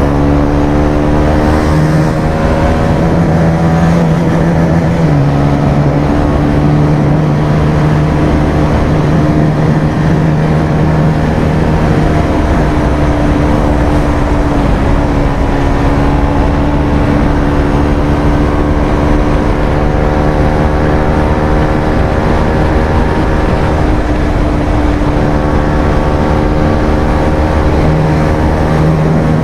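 Bajaj Pulsar 220F single-cylinder engine with an aftermarket Akrapovic exhaust, running at steady high revs under way. The pitch rises near the start and shifts slightly a few times with throttle.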